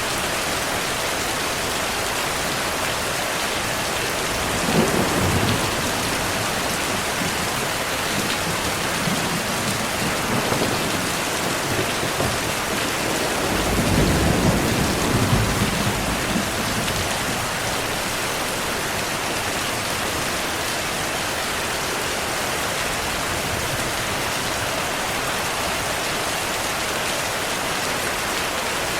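Steady heavy rain hissing, with thunder rumbling low twice: a short roll about five seconds in and a longer, louder one around the middle.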